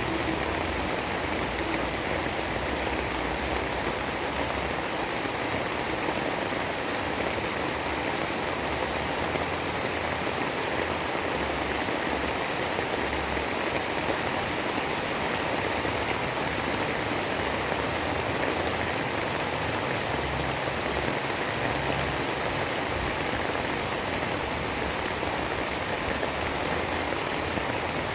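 Steady, unbroken hiss of heavy rain, with no single drops, gusts or thunder standing out.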